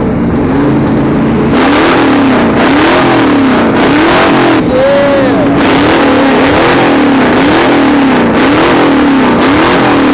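Car engine revved hard over and over at high rpm, its pitch held, dipping and climbing again about once a second. It is very loud, loud enough to hurt the ears of those standing right behind the car.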